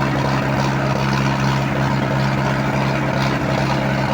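Diesel tractor engines of a Swaraj 963 and a Sonalika 60 running steadily in a tractor tug-of-war, a deep even drone.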